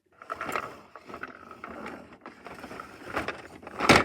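Plastic toys being handled and moved about, with uneven scraping and rustling and one sharp knock near the end.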